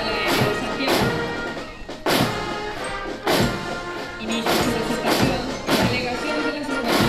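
Military marching band playing a march: held brass chords over regular bass drum and cymbal strokes keeping the marching beat.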